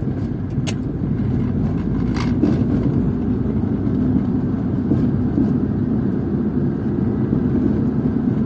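Steady road and engine noise of a car driving, heard from inside the cabin, with a few short sharp ticks, one about a second in and another about two seconds in.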